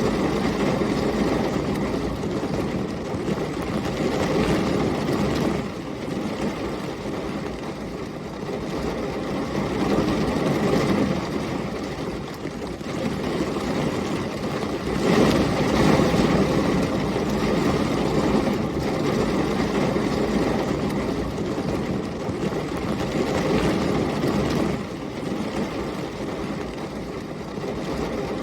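Heavy rain with storm wind: a dense, steady rush that swells and eases in gusts every few seconds, loudest about halfway through.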